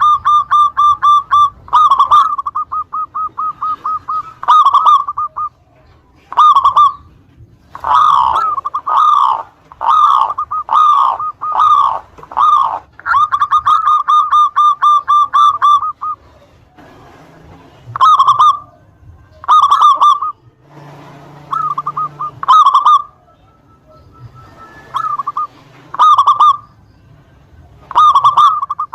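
Zebra dove (local perkutut) cooing vigorously: fast runs of even, rapid notes alternate with a series of separate down-slurred coos about one a second, then shorter phrases with pauses between them near the end.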